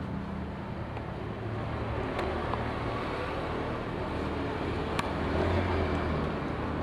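Small Parsun 3.6 HP outboard motor running steadily at a constant speed, with a single sharp click about five seconds in.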